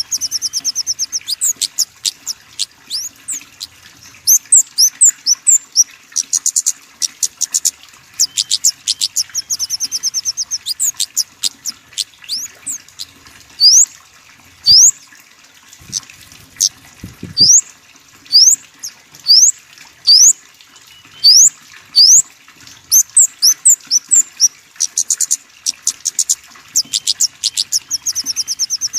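Small songbirds calling: rapid runs of high, thin ticking notes and sharp upward-sweeping chirps, repeated over and over.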